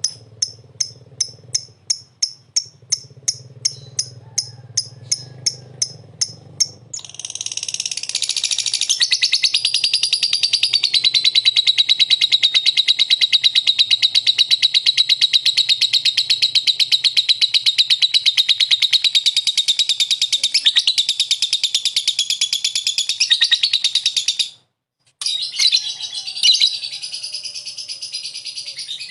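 Lovebird (Agapornis) calling: a run of sharp, evenly spaced chirps about three a second, which breaks after about seven seconds into a long, unbroken, rapid high trill lasting over fifteen seconds. The trill cuts off abruptly for a moment, then the chattering resumes.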